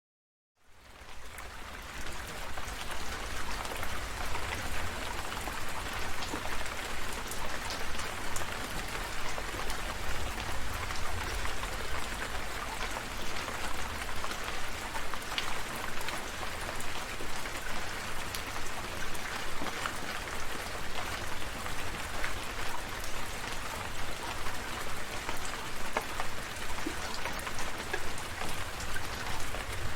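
Steady rain with individual drops pattering, fading in from silence about half a second in, with a low rumble underneath.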